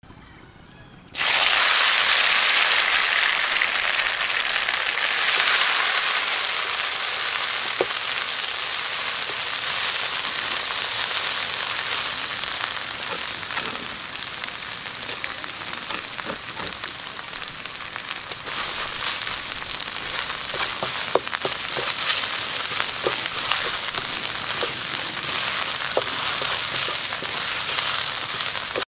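A paste with chopped chili hits hot oil in a steel wok about a second in and starts to sizzle loudly, then settles into steady frying as it is stirred. A few sharp clicks of the spatula on the wok are heard later.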